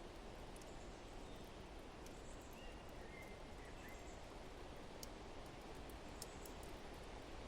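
Faint, steady wind-like rushing, with a few brief bird chirps in the middle and scattered small crackles from a wood fire.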